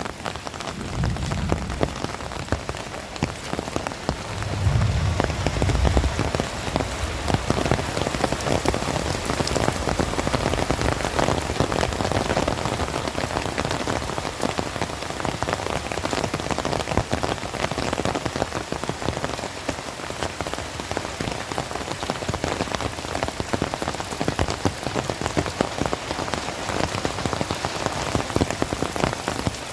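Heavy rain falling in a dense, steady patter of drops. A low rumble breaks in about a second in and again around five seconds in.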